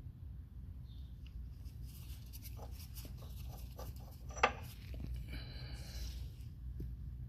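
Light metallic clicks and scraping of pliers or a pipe wrench working the threaded end cap off a forklift's hydraulic lift cylinder, with one sharp click about four and a half seconds in, over a steady low hum.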